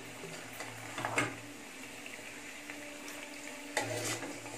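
Chicken pieces cooking with a low sizzle in a nonstick kadai while a steel spoon stirs them, with a sharp knock of the spoon on the pan about a second in. Near the end a splash of water is poured in from a glass.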